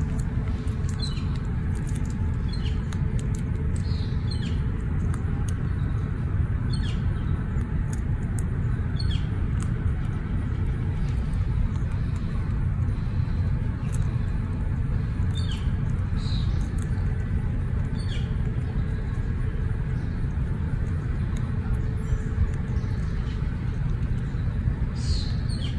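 Steady low background rumble, with a small bird giving short falling chirps every second or two.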